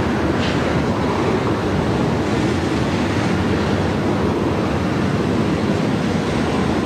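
A passing train: a steady, loud roar of wheels on rail.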